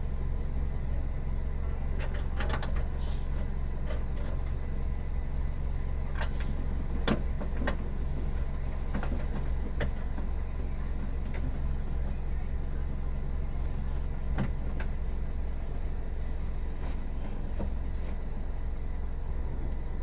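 Car engine idling steadily, with scattered clicks and light knocks of handling.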